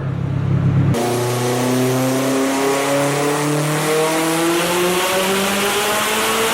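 Car engine on a chassis dyno making a full-throttle pull, its pitch climbing slowly and steadily as the revs rise under load, starting abruptly about a second in.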